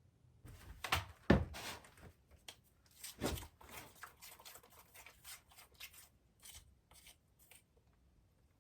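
A run of small knocks, scrapes and rustles of things being handled, loudest a little after a second in and again about three seconds in, thinning out toward the end.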